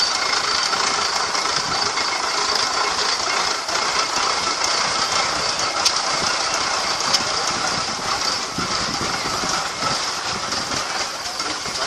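Rumely steam traction engine running, a steady hiss with faint scattered ticks.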